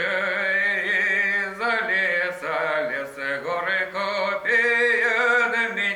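A man singing a Cossack folk song in long, drawn-out notes with a wavering vibrato, starting abruptly at the beginning.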